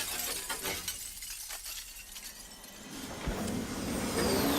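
Glass-shattering sound effect from an animated series, its tinkling shards scattering and fading away over the first two seconds. Near the end a falling whine begins.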